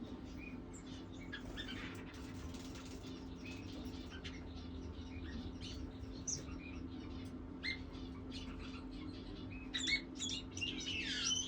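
Pigeons peeping in short, high chirps, sparse at first and busier and louder in the last couple of seconds, with a few downward-sliding calls. A steady low hum runs underneath.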